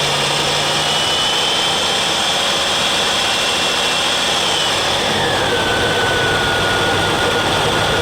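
Jeep CJ-7's engine turned over to test whether its fuel pump will draw gasoline from a jar through the line: a loud, steady noise with a whine that drops in pitch about five seconds in.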